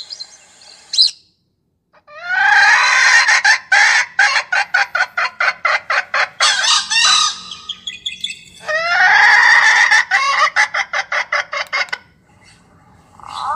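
Recorded bird call played through a bird-caller hunting speaker: two long phrases, each opening with a rising note and then a fast run of short clucking notes that slows toward the end, with a brief pause between them.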